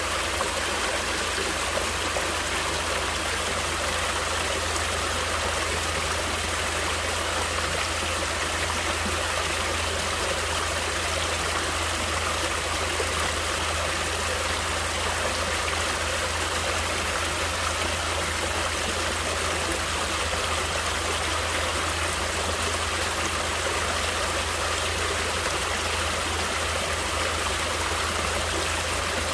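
Naturally flowing water running steadily, an even rushing hiss without breaks, with a steady low rumble underneath.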